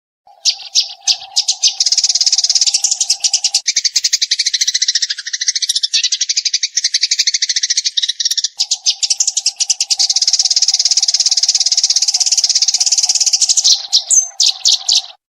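Eurasian tree sparrow chirping in a rapid, unbroken run of high chirps, with a steady low hum under most of it that drops out for a few seconds in the middle. The chirping starts and stops abruptly.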